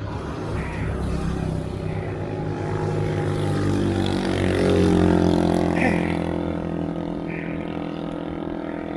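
A motor vehicle's engine running, growing louder to a peak about five seconds in and then easing off, with a rushing noise of wind and road.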